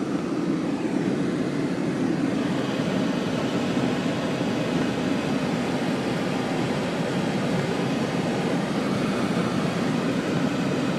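Steady car noise: a low rumble with a hiss above it that grows a little about two seconds in.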